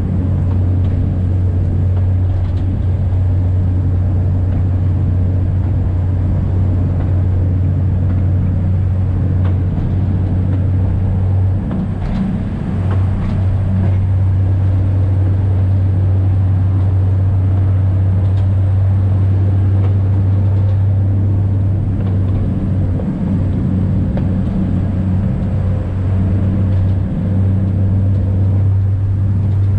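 Alishan Forest Railway train's diesel engine running with a steady low drone, mixed with the noise of the wheels on the track. The drone dips briefly a couple of times, and a few faint clicks come through.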